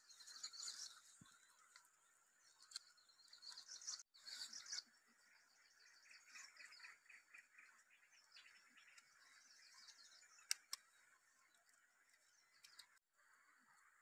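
Near silence: faint outdoor ambience with birds chirping, and a couple of sharp clicks about ten seconds in.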